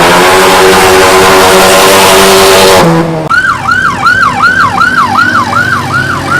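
A car engine held at high revs with a loud hiss of spinning tyres during a burnout, cutting off about three seconds in. A police siren's rapid yelp follows, about three to four sweeps a second.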